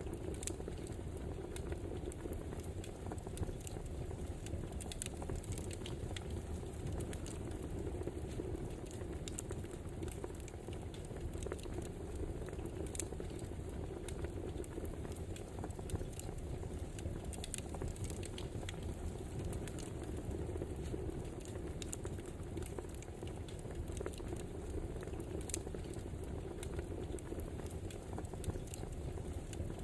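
Crackling wood fire: frequent irregular crackles and pops over a steady low rumble and hiss.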